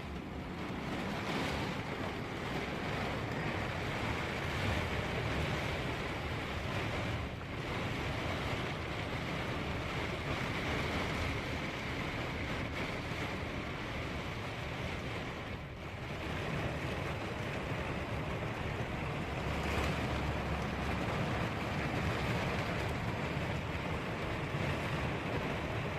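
Storm of heavy rain and strong wind, a steady rushing hiss with gusts buffeting the microphone as an uneven low rumble.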